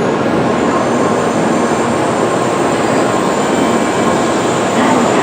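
Tokaido Shinkansen train moving along the platform: a loud, steady rush of wheel and air noise with a thin high whine over it.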